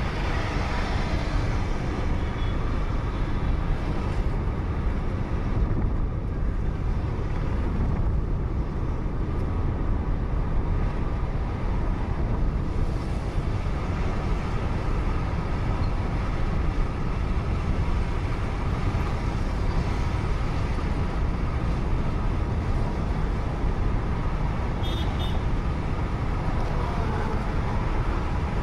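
Steady road and engine noise of a moving car, heard as a constant low rumble through a dashcam. Near the end there is a brief high beep.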